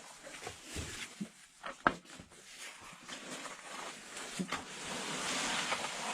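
A caver crawling through a tight rock squeeze: clothing and gear scraping and rustling against rock, with scattered knocks. The scraping grows louder toward the end.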